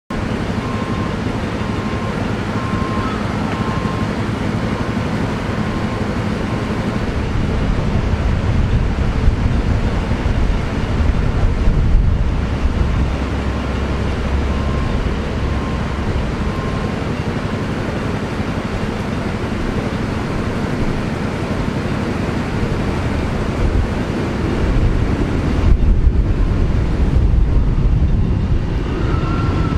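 Wind buffeting the microphone outdoors, a loud, steady rumbling noise that swells and eases in gusts. A faint repeated beeping can be heard behind it near the start and again about halfway.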